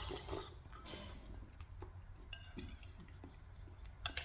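Spoon clinking against a soup bowl while eating, with quiet mouth sounds. One ringing clink comes a little past two seconds in, and a sharper, louder clink comes near the end.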